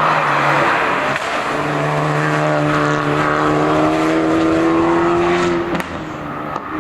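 Hill-climb race car engine running hard at high revs, its pitch held nearly steady and rising slightly, then cut back suddenly near the end.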